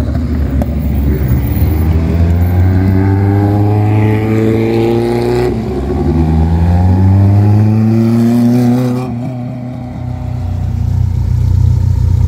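Simca 1000 rally car's rear-mounted four-cylinder engine pulling hard in two long runs of rising pitch. It then settles to a steady, lower running or idling note near the end.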